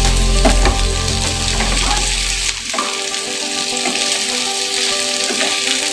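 Vegetables stir-frying in a hot non-stick pan: a steady sizzle, with the scrape and clack of wooden spatulas tossing them. A low background hum stops about halfway through.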